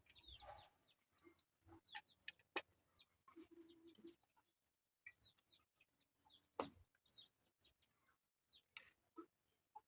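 Faint, rapid high peeping of chicks, short downward-slurred peeps repeating throughout, with scattered light clicks and one louder knock about two-thirds of the way through as food is served.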